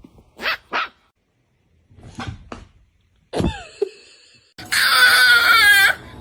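A dog giving short yips, then a loud, long cry that wavers up and down in pitch near the end, a dramatic whining howl.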